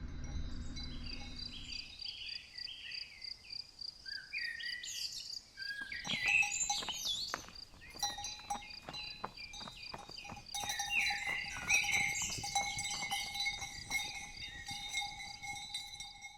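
Birds singing, with repeated clanking of cowbells starting about six seconds in, over a steady high insect-like trill.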